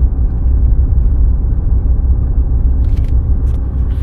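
Ram 2500's Cummins turbodiesel and tyres giving a steady low rumble as the truck drives through deep snow. A few faint clicks come in near the end.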